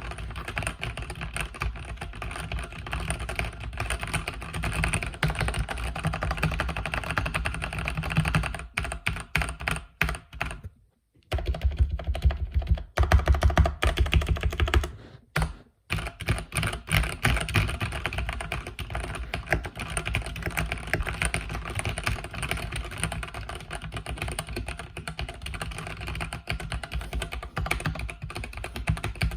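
Fast, continuous typing on a mechanical keyboard with linear red switches, a dense patter of keystrokes. The typing breaks off twice in the middle for a moment, with louder strokes in between.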